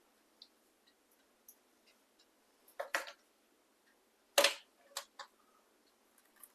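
A few faint clicks, then a short cluster of sharp knocks about three seconds in, and the loudest knock about a second and a half later, followed by two smaller ones.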